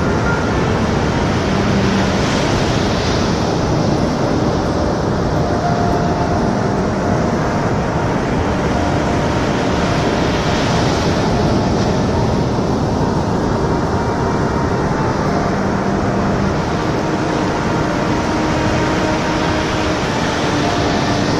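Ocean surf: a continuous rushing of waves, with the hiss of breaking water swelling about two seconds in and again around ten seconds.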